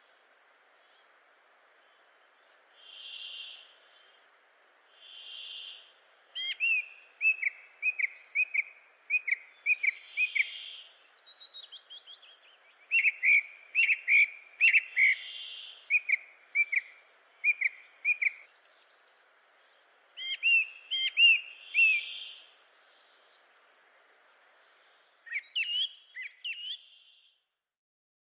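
Birds calling: a soft whistled note repeated every two to five seconds, with runs of short, sharp chirps in quick series from about six seconds in.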